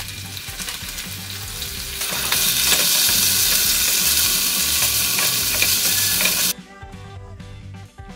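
Garlic, ginger and curry leaves sizzling in hot oil in a frying pan, stirred with a wooden spatula. The sizzle grows louder about two seconds in, then cuts off abruptly, leaving faint background music.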